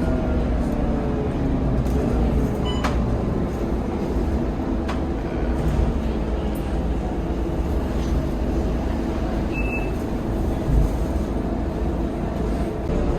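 Scania K230UB city bus on the move: steady engine and road rumble, with a few sharp clicks and rattles and a short high beep about ten seconds in.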